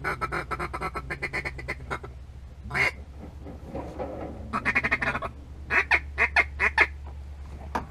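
A mallard duck call being blown: a fast feeding chatter of many short notes, a single quack, another quick run, then a slower series of separate quacks. A steady low hum sits underneath.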